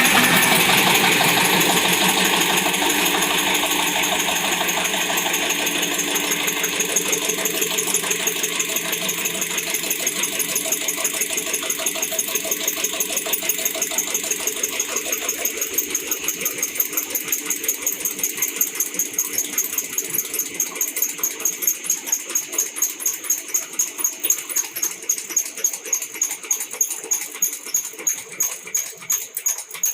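Four-stroke single-cylinder diesel engine running, its firing beat slowing gradually so that the separate pulses grow more distinct, as the engine's speed falls.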